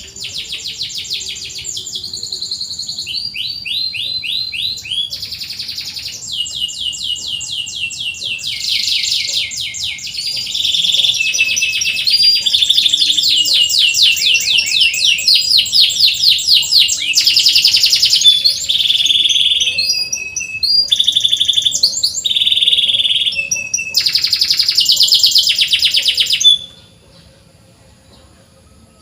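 Domestic canary singing: a long song of fast trills and rapid repeated chirping notes, switching between phrases of different pitch, then breaking off suddenly near the end.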